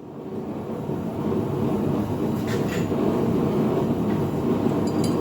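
A forge running with a steady rushing roar, with a couple of faint metallic clinks.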